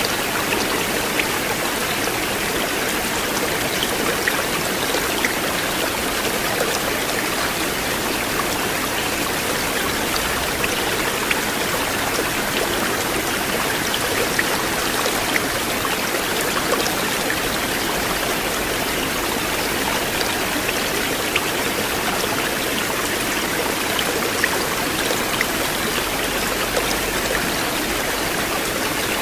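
River water flowing and babbling over stones, a steady rushing with small splashes and drips scattered through it.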